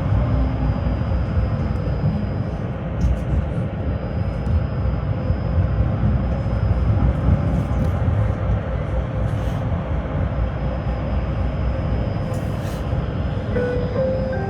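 Tram running along the rails, heard from inside the passenger car: a steady low rumble with a few faint clicks and, near the end, a faint rising whine.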